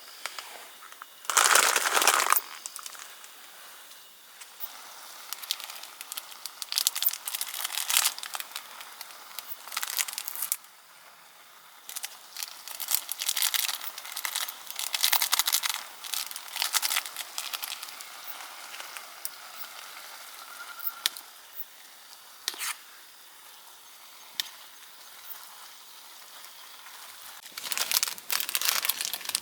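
Irregular bouts of rustling and crinkling, as of material being handled, loudest about two seconds in and again near the end.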